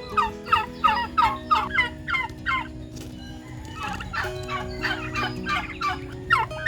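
Domestic turkeys calling in a quick run of short calls, about three or four a second, with a brief pause about halfway through before they start again.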